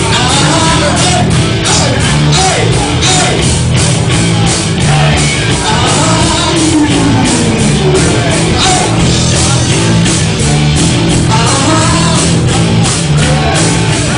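Live rock band playing loudly, with a singer over electric instruments and a steady, driving drum beat.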